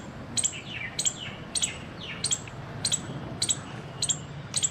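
Squirrel giving its alarm call: a run of short, sharp chirps, roughly one every half second to two-thirds of a second, each with a quick falling tail.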